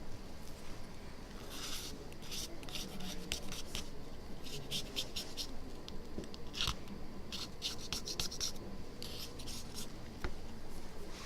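Runs of short, quick scratching strokes of a blade scraping over a phone's glass screen, several strokes per burst with brief gaps between: softened glue residue being scraped off the display.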